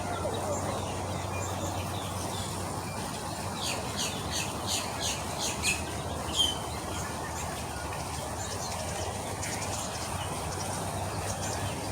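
A bird calling: a quick series of about eight chirps, each falling in pitch, then one sharper note, with fainter chirps later over steady background noise.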